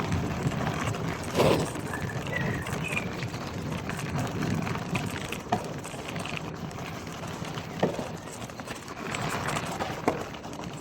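Marin Gestalt X10 gravel bike rolling over a bumpy gravel track: steady tyre noise with a few sharp knocks and rattles as it goes over bumps.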